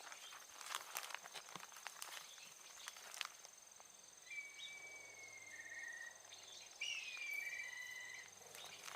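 Quiet outdoor ambience: scattered light clicks and crackles, then two drawn-out whistling calls in the second half, each stepping down in pitch partway through. A faint steady high tone runs underneath.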